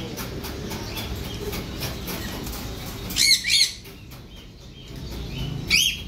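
Bird calling: two short, shrill, warbling calls in quick succession a little after three seconds in, and one more just before the end.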